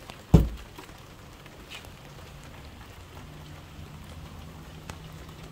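Steady rain pattering, with one sharp knock about a third of a second in and a few faint ticks later.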